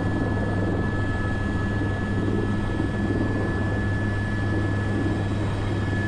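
Airbus AS350 B3 (H125) helicopter running steadily, heard from inside the cockpit: a constant low rotor and single-turbine drone with a thin, steady high whine over it.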